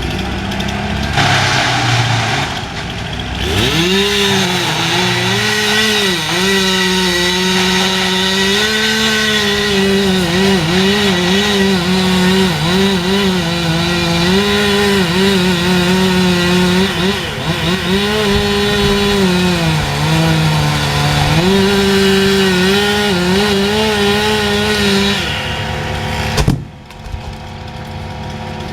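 Chainsaw running at high revs and cutting, its pitch repeatedly dipping and recovering as it loads up in the wood. It starts a few seconds in and stops shortly before a single sharp thump near the end.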